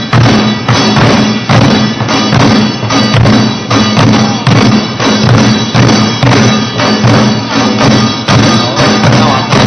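Korean pungmul ensemble playing a battle-drum piece: buk barrel drums struck hard in a fast, driving rhythm, about two to three strokes a second, over a sustained ringing tone.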